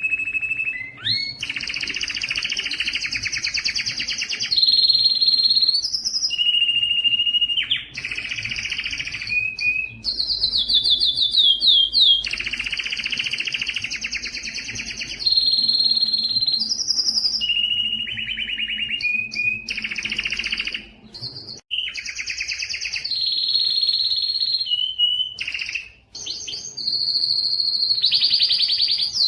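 A domestic canary singing a long, continuous song made of fast rolling trills, each held for a second or two before switching to a new trill at a different pitch, some high and some lower, with two short breaks late on.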